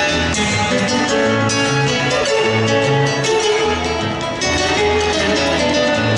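Paraguayan polka played on acoustic guitar, with a repeating bass line under the plucked melody.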